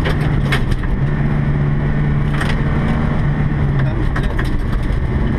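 Volvo 240 rally car's engine heard from inside the cabin, holding a steady note on a gravel stage and easing off about four seconds in, with gravel clicking against the underside now and then.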